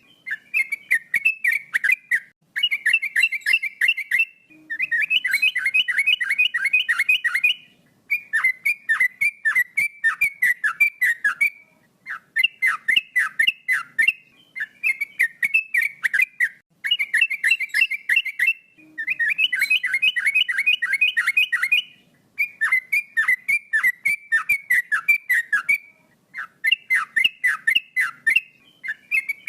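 Male yellow-vented bulbul (trucukan) singing: phrases of quick, clear whistled notes, each note falling sharply, several a second. The phrases run two to four seconds each, with short pauses between them.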